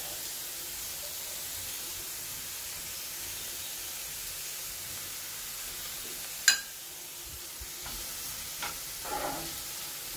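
Chopped onions, green chillies and curry leaves sizzling steadily in hot oil in a nonstick frying pan. About two-thirds of the way through there is one sharp click, and near the end a spatula starts stirring and scraping the pan.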